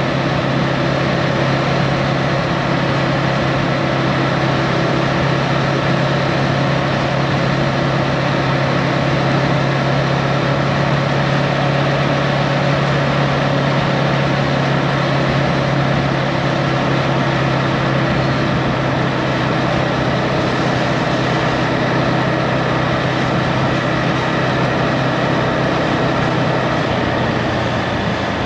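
Husqvarna Svartpilen 401's single-cylinder engine running at a steady cruising speed under wind and road rush, with the engine note easing off near the end.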